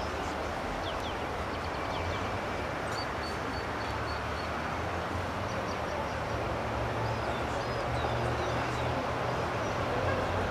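Steady outdoor background noise with a low hum, with short, high bird chirps about three seconds in and several more a few seconds later.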